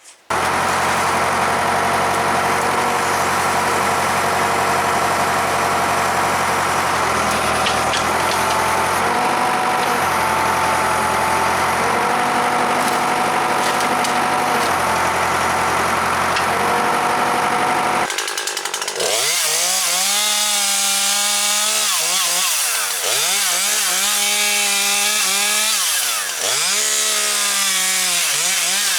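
An engine running steadily with small shifts in pitch, then, after an abrupt change about 18 seconds in, a Husqvarna 540XP Mark III two-stroke chainsaw cutting brush at high revs, its pitch dipping and recovering several times as the chain bites into branches.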